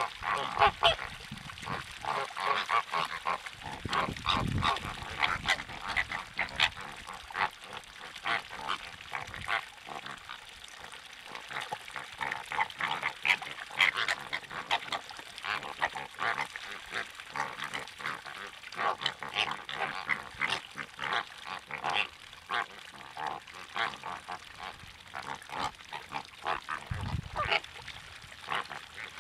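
A flock of water birds calling: many short calls overlapping in a dense, continuous chatter. A brief low rumble comes about four seconds in and again near the end.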